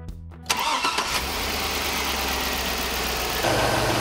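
Chevrolet Suburban's Vortec V8 starting and running at a steady idle, coming in suddenly about half a second in. A few seconds in, it turns a little louder, with a steadier low hum.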